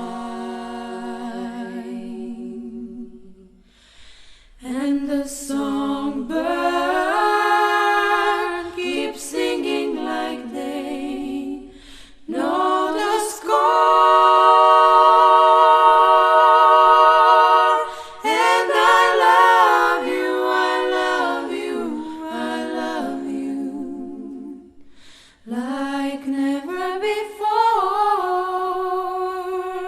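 Three women singing a cappella in close harmony, in phrases broken by short pauses. The loudest part is a long held chord about halfway through.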